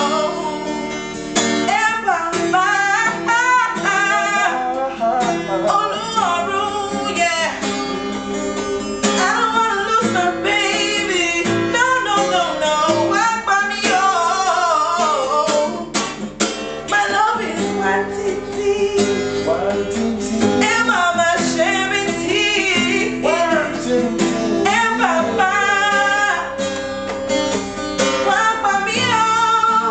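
A song: acoustic guitar playing, with a voice singing over it throughout.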